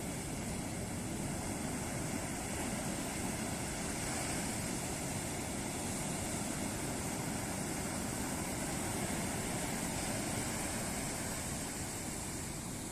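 Ocean surf: a steady rush of waves breaking on the shore, swelling slightly in the middle and easing a little near the end.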